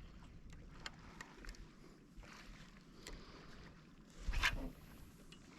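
Water sounds around a fishing kayak at sea, with a few faint clicks and one short, louder splash-like sound about four seconds in.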